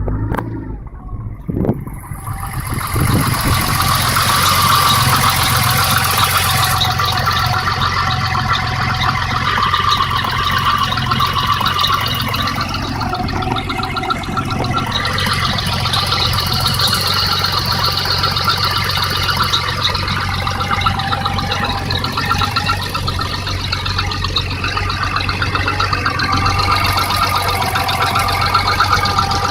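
BMW M30B35 3.4-litre straight-six idling steadily after starting easily. It grows louder over the first few seconds, then holds an even idle.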